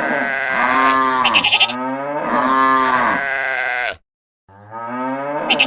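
Long bleating calls, about four in a row, each rising and then falling in pitch. They cut off abruptly about four seconds in.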